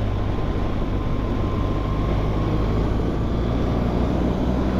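BMW R1200GS boxer-twin engine running steadily while the motorcycle is ridden, with wind noise.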